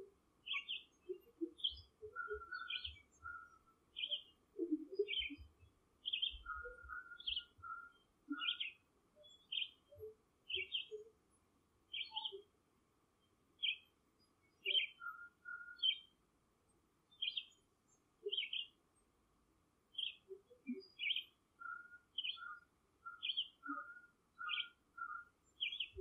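Short high chirps, repeated about every two-thirds of a second, like a bird calling over and over. Clusters of quick, lower notes come in now and then, about two seconds in, around seven seconds, around fifteen seconds and again near the end. Faint, scattered low notes sit underneath.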